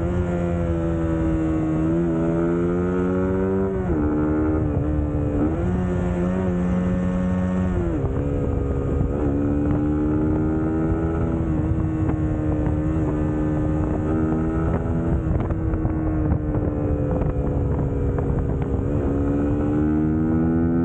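Suzuki GSX-S150's 150 cc single-cylinder four-stroke engine running under way. The revs climb and drop sharply a few times in the first eight seconds, then hold fairly steady, with wind rushing over the microphone.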